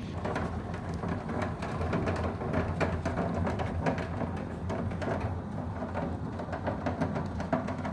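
Storm downpour: a dense patter of sharp impacts on surfaces, over a steady low wind rumble.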